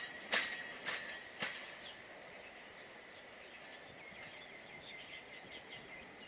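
Wheels of a small forest-railway train clicking over rail joints as it rolls slowly into the station, about two clicks a second, the last about a second and a half in. Faint chirping follows in the quiet.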